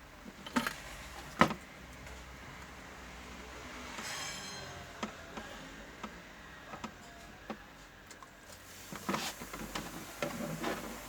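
Scattered light clicks and knocks of small objects being handled, with a sharper click about a second and a half in and a run of quick clicks and rattles near the end.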